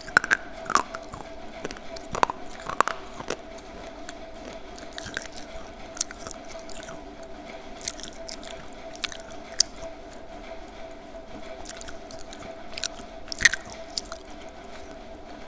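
Close-miked chewing and crunching of homemade slate pencil lollipop pieces: irregular crisp crunches, several in the first few seconds, then scattered ones, with one loud bite near the end.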